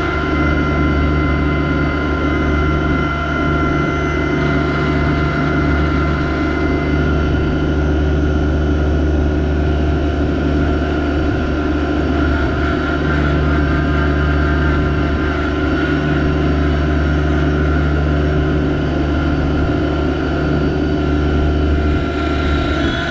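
Yanmar SA324 compact tractor's three-cylinder diesel engine running steadily under load, with a steady high whine over the engine note.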